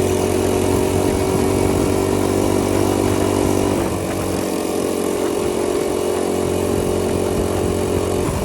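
Minibike's small engine running steadily. It eases off slightly about halfway through, then picks up again near the end.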